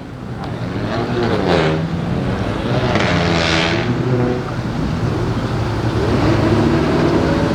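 Car engines running and accelerating, their pitch rising and falling, with a louder rushing swell about three seconds in.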